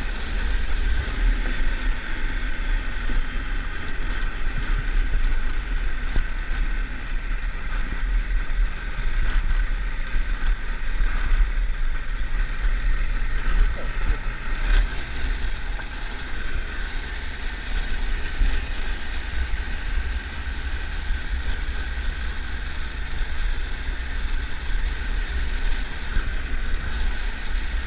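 Triumph Tiger 1200 motorcycle on the move: its three-cylinder engine runs steadily under heavy wind rumble on the microphone.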